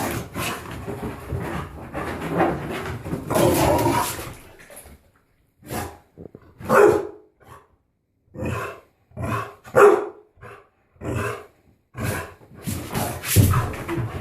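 A dog barking and growling, a dense run for the first few seconds, then separate short barks and grumbles about once a second: a dog protesting against being given a bath.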